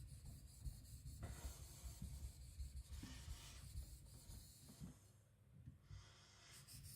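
Kiridashi blade being rubbed back and forth under firm pressure on a wet sharpening stone: a faint, uneven scraping that eases off for a moment past the five-second mark.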